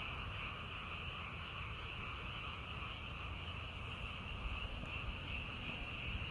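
Frogs calling in a dense, steady chorus, their massed calls blending into a continuous trill.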